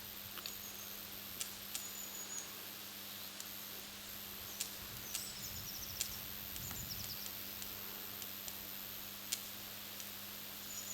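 500 kV overhead power line: a steady low hum with irregular sharp snaps and clicks, the 'knocking' of the wires, typical of corona discharge on the high-voltage conductors. Birds chirp briefly now and then.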